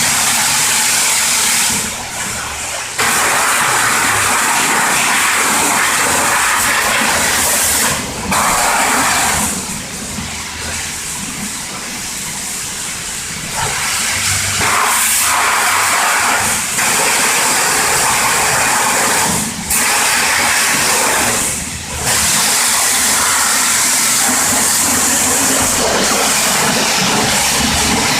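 High-pressure washer spraying water over a car's engine bay: a loud hiss of spray that stops and starts again several times.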